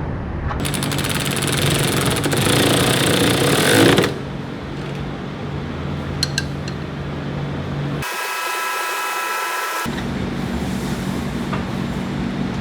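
A power tool hammering rapidly for about three seconds, then a steady low shop hum, with a short burst of a few steady tones about two-thirds of the way in.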